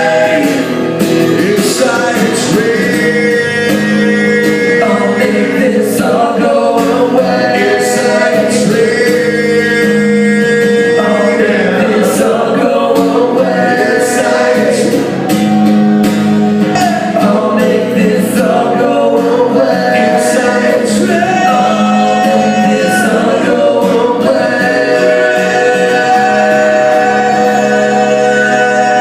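Live acoustic rock performance: strummed acoustic guitar under long held sung notes, with no recognisable words.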